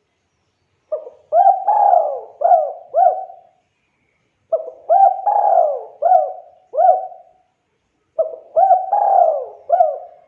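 Spotted dove (tekukur) cooing: three loud song phrases a little over a second apart, each a run of about five rolling coo notes.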